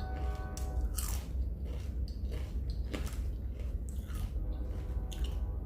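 Close-up chewing of a steak and cheese sub: wet mouth clicks and smacks several times a second, with bites of the bread.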